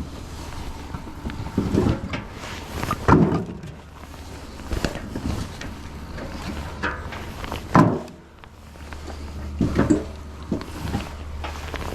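Pieces of firewood being handled and tossed while loading, making a series of irregular wooden knocks and thunks every second or two, over a steady low hum.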